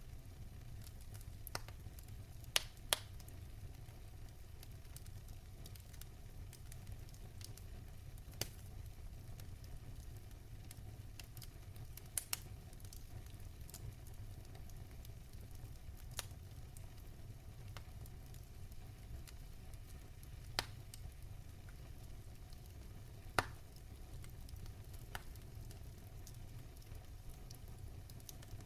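Wood fire crackling in a fireplace: sharp, irregular pops every few seconds over a steady low rumble of the flames.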